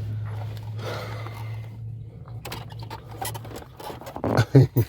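Scattered clicks and scrapes of a screwdriver and hands working at the screws behind the accelerator pedal, over a steady low hum. A few louder knocks come near the end.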